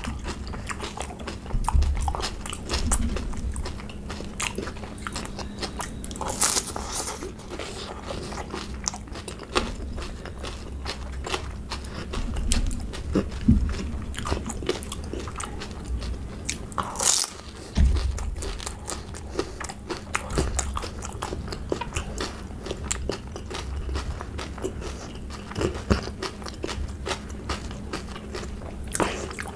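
Close-miked crunching and wet chewing of pani puri: crisp fried puri shells filled with spicy tangy water, cracking and being chewed in repeated bites. Two louder, sharper noises stand out, about 6 and 17 seconds in.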